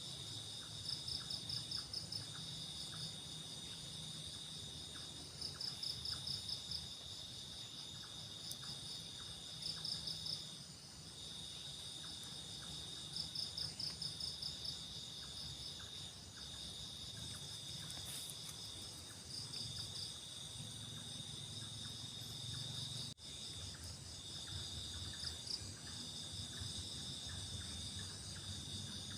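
Night insect chorus: a steady high chirring, broken by short gaps, with louder pulsing trills that come in bursts every few seconds.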